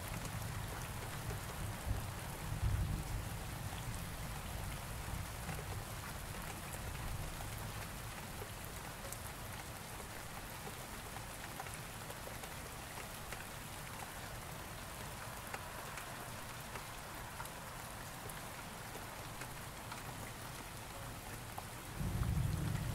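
Steady rain falling in an even hiss. A low thunder rumble fades out over the first few seconds, and another rumble starts suddenly near the end.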